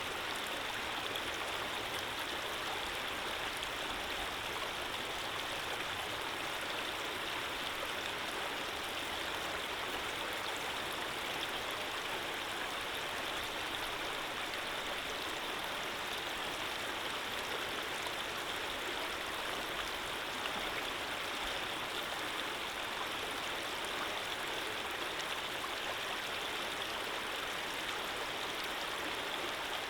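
Running water flowing steadily: an even rush with no breaks or changes.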